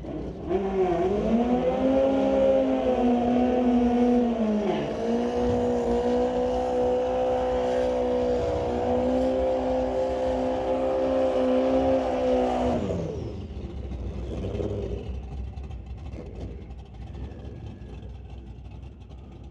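Drag-racing motorcycle engines running hard at high revs down the strip, the pitch dipping briefly about five seconds in and then holding steady. About thirteen seconds in the engine sound drops sharply and fades away.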